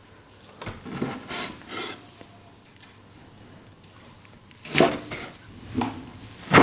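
Kitchen clatter: a handful of irregular knocks and clinks of dishes and utensils being handled, the loudest near the end.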